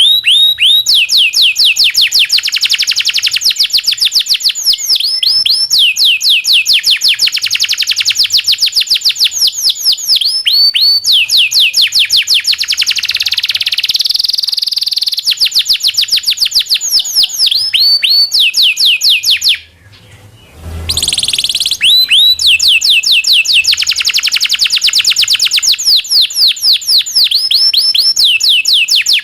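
Domestic canary (Indonesian local canary) singing a long song of fast rolling trills: rapid runs of repeated down-sweeping whistled notes. The song breaks off for about a second near twenty seconds in, with a low thump, then picks up again.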